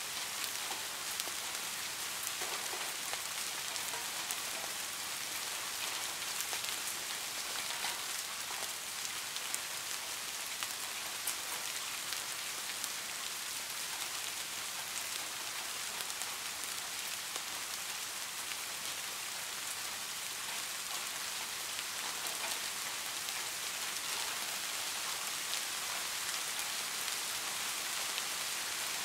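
Heavy rain falling steadily: a dense, even hiss with scattered sharp taps of individual drops.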